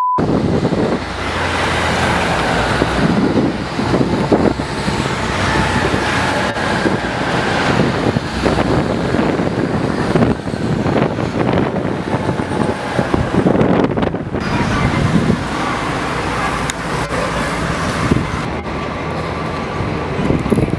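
Street traffic noise, with wind buffeting the microphone in irregular gusts.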